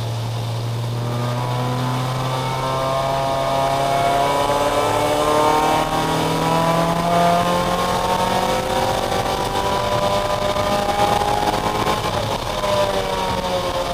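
Race car engine heard from inside the cockpit, pulling with its pitch climbing slowly for most of the time, then falling off near the end as the car slows, over a steady hiss.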